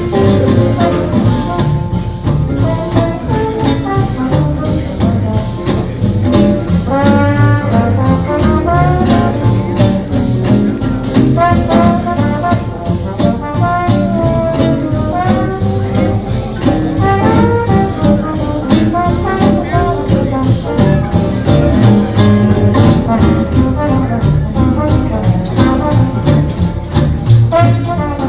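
A live swing jazz band plays an instrumental chorus. A brass horn solos a melodic line over a steady, swinging rhythm section beat.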